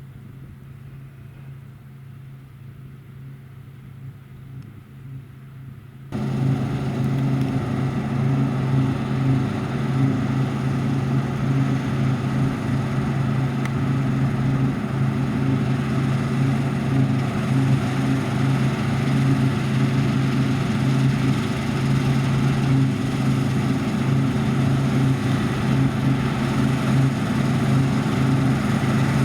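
Heavy harvest machinery running, a steady low engine drone. About six seconds in it becomes suddenly much louder and fuller, then holds steady.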